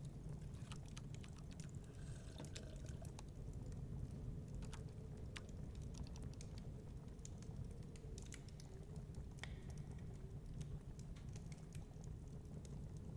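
Wood fire crackling in a fireplace, with irregular sharp snaps and pops over a steady low rumble of storm wind.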